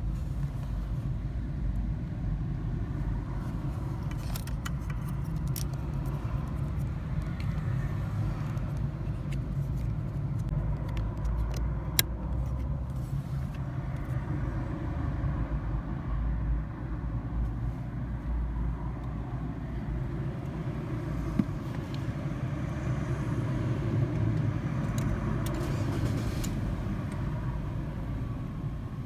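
A car running with a steady low rumble, with a few faint clicks now and then.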